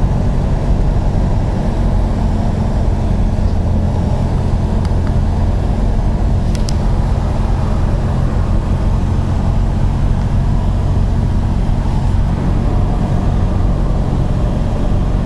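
Cessna 172M's four-cylinder Lycoming engine and propeller running with a steady drone, one short click near the middle.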